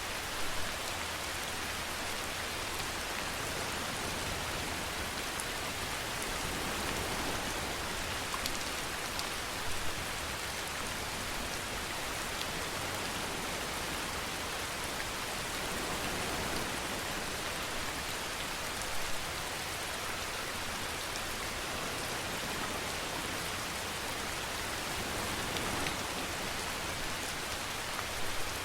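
Steady rain falling, an even hiss, with a few louder drops standing out every several seconds.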